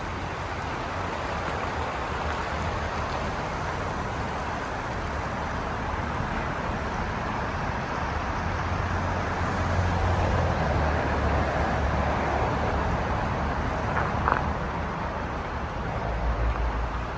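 Steady rumble and road noise of a car driving, swelling a little partway through.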